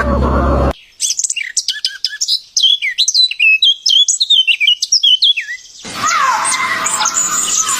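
A songbird singing a quick run of sharp chirps, each sweeping down in pitch. About six seconds in it cuts to a busier chorus of many birds calling over one another. It opens with the tail of a repeated farmyard call, likely a chicken's, cut off under a second in.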